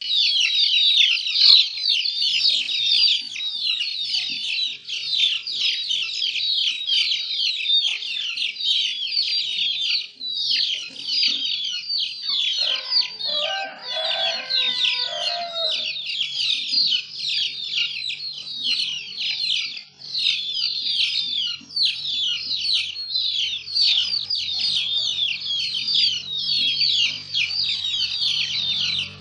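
Many small birds chirping continuously in a dense chorus of quick, high chirps, with one longer, lower call that starts about 13 seconds in and lasts about three seconds.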